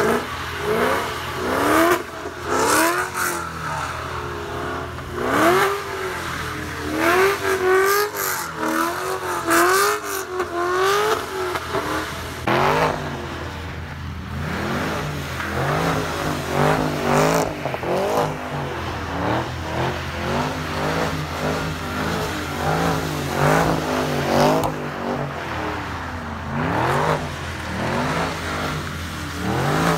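Car engine revving up and down over and over, about once a second, while the car spins donuts on wet pavement, with the hiss of tyres spinning through water.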